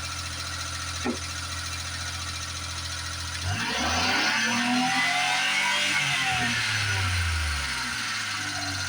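Japanese mini truck's small engine idling cold, then about three and a half seconds in the revs climb by themselves and sink back to idle over about four seconds. The engine speeds up without the accelerator being pressed, as the headlights are switched on; this only happens while the engine is cold and the choke is on.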